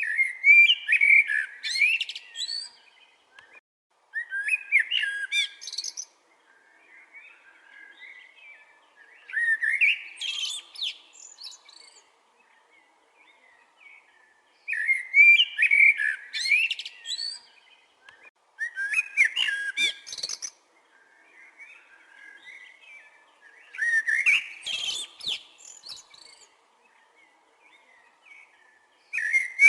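Chopi blackbird (pássaro-preto) singing: loud whistled phrases of about two seconds with rising sweeps, repeated every four to five seconds, with softer notes in between.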